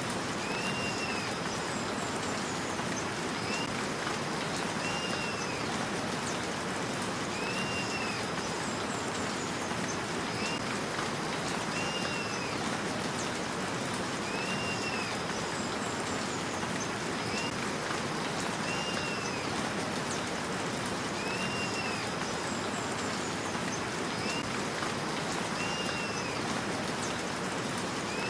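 Steady rain hiss with a bird calling over it: a rising-and-falling whistled note repeated about every two seconds, and a short high trill now and then.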